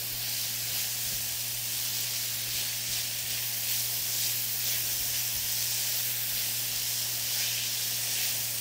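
Diced onion, red pepper and spices sautéing in hot olive oil in a stainless steel skillet while being stirred: a steady sizzle. This is the sauté stage, with the spices blooming in the oil and the onions not yet translucent.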